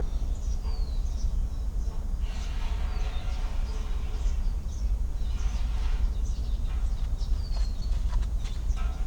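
Outdoor ambience: small birds chirping now and then, with a couple of short falling whistled notes, over a steady low rumble.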